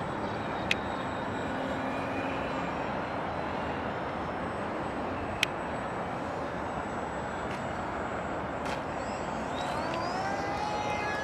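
Wind noise on the microphone, with the faint whine of a radio-controlled float plane's motor that rises in pitch about ten seconds in and then holds. Two sharp clicks stand out, one near the start and one about halfway.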